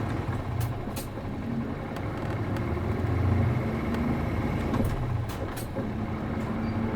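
City bus with an MD92TJ diesel engine, heard from inside the cabin: a steady low engine rumble that swells and eases, with a few sharp clicks and rattles.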